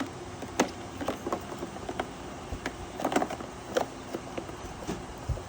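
Irregular light clicks and small knocks of hands handling parts and tools on a small portable generator, with no engine running.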